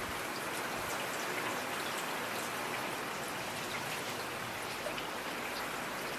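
Steady rain falling, with scattered individual drops pattering against a surface.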